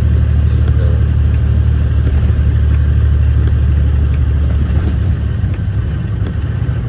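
Off-highway logging truck's diesel engine running, heard from inside the cab: a loud, steady low drone.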